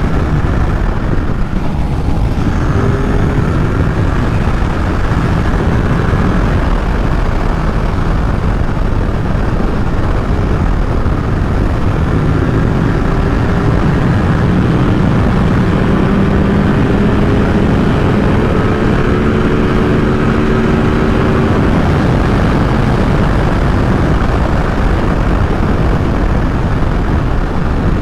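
Ducati Supersport 950 S's 937 cc L-twin engine running at road speed under heavy wind rush on the microphone. The engine note climbs gently as the bike pulls through the middle stretch, then sinks back into the wind.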